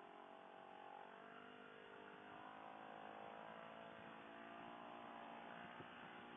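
Faint sound of a CFMoto CL-X 700's parallel-twin engine running while riding, its pitch rising gently a couple of seconds in and then holding steady.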